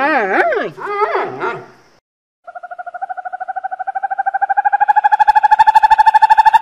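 For about two seconds, a wavering, whine-like animal call warbles up and down in pitch. After a short gap, a snowy owl gives a long, rapidly pulsed call that rises slightly in pitch and grows louder.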